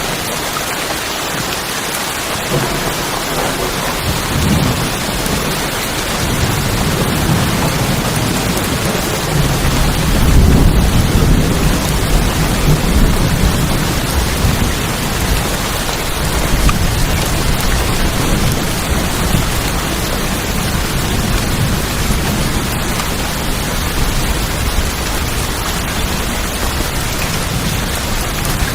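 Steady rain drumming on tin roofs, with a long, low rumble of thunder that builds a few seconds in, is loudest about ten seconds in, then slowly fades.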